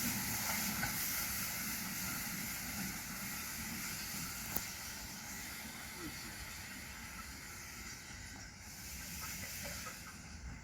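Steam hissing from a 15-inch-gauge miniature steam locomotive, slowly fading, with one sharp click about four and a half seconds in.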